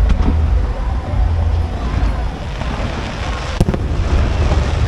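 Aerial fireworks display: a continuous low rumble of booming shells, with one sharp crack about three and a half seconds in.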